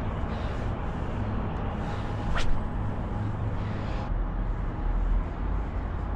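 Steady city background noise of traffic with a low rumble, and one brief sharp sound about two and a half seconds in.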